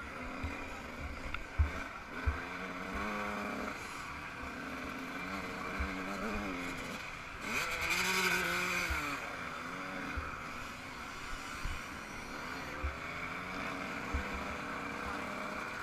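Yamaha YZ125's single-cylinder two-stroke engine revving up and down under way, over steady wind rush on the helmet or bike camera. Short low thumps recur, and a louder rush of noise comes about eight seconds in.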